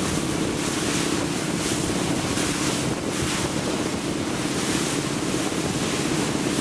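Boat engine running steadily under way, with water rushing past the hull and wind buffeting the microphone in gusts.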